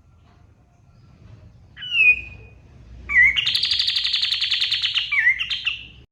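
Kapas tembak bulbul singing: a single drawn-out falling whistle, then a fast, buzzy run of rapid notes lasting about three seconds that ends in a couple of sliding whistled notes and cuts off suddenly.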